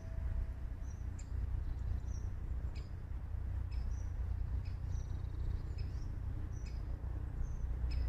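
Small birds giving short, high chirps about once a second over a steady low rumble. A held ringing tone fades out in the first second.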